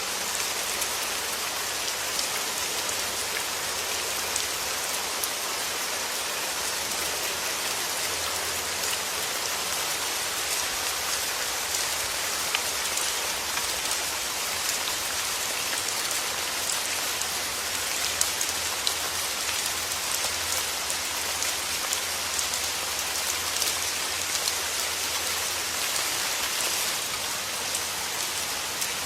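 Steady, even rainfall, with many small drop ticks over a constant hiss.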